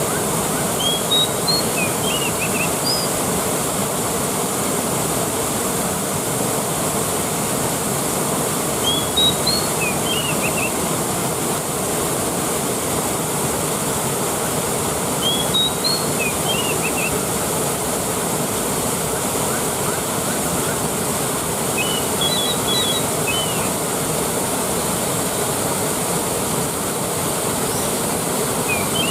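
Waterfall rushing steadily. A short run of high chirps recurs about every six or seven seconds.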